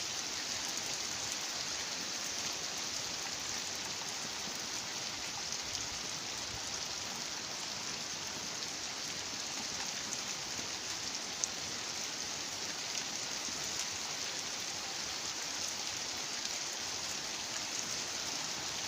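Heavy rain falling steadily, an even hiss with no let-up, and a single sharp tick about eleven seconds in.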